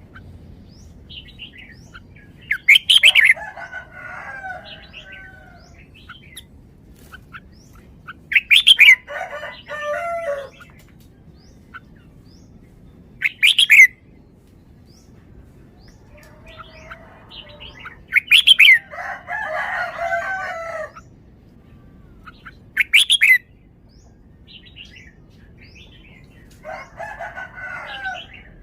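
Red-whiskered bulbul singing: about six short song phrases a few seconds apart, each opening with a loud, sharp whistled note and running on into a warbling tumble of lower notes.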